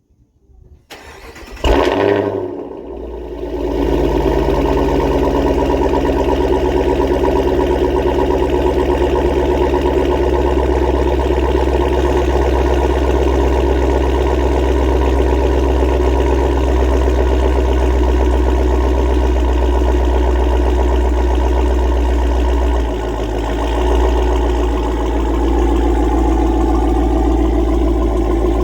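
Dodge Hellcat's supercharged 6.2-litre Hemi V8 started up through a Corsa Xtreme cat-back exhaust: a loud flare about two seconds in, then a steady idle. The idle dips and lifts briefly near the end.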